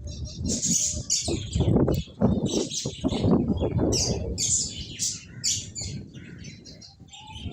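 Finches chirping in rapid, short, high calls, mixed with low rustling thumps.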